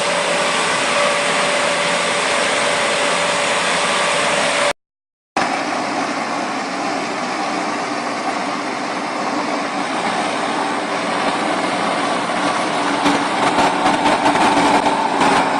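Steady machine running noise with a steady whine, cutting out for a moment about five seconds in, then a different, rougher machine noise with scattered clicks and knocks near the end.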